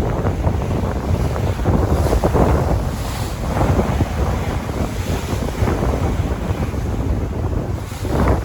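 Sea waves washing and surging, with wind buffeting the microphone as a heavy low rumble.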